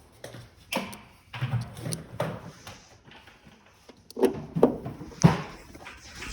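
Irregular knocks, clatter and scraping of furnace parts being handled and fitted back in place, with a cluster of three sharp knocks a little after halfway.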